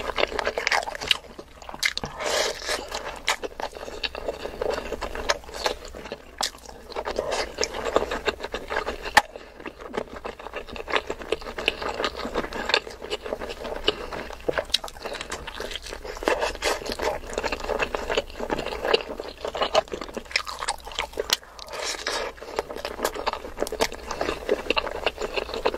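Close-miked chewing and wet mouth sounds of a person eating mutton curry with basmati rice: dense rapid clicks and smacks, easing briefly a few times between mouthfuls.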